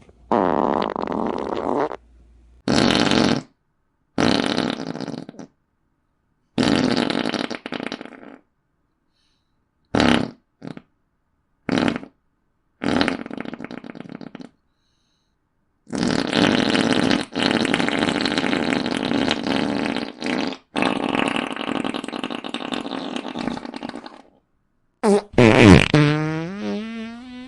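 A run of fart sound effects, one after another with short silent gaps. Several last a second or two, a few quick ones come around the middle, and a long one runs about eight seconds. Near the end comes one whose pitch swoops up and then down.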